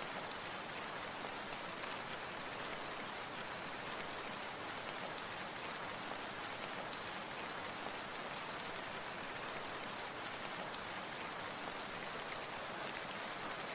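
Falling water, rain-like: a steady, even patter and hiss that does not change.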